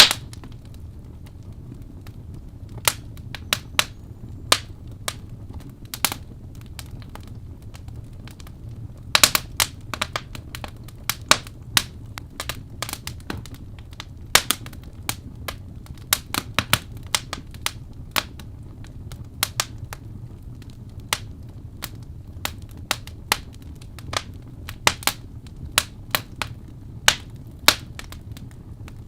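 Birchwood fire crackling in a fireplace: sharp, irregular pops and snaps, some in quick clusters, over a steady low rumble of burning.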